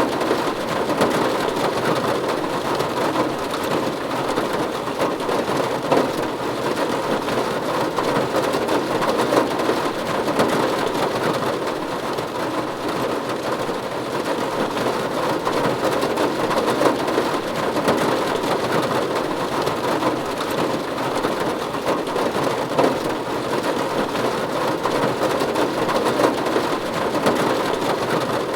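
Steady rain falling on a roof: an even hiss with many small drop impacts, unchanging throughout.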